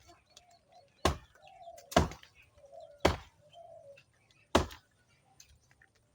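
A hand blade chopping into a moringa tree branch: four sharp chops at an uneven pace of roughly one a second.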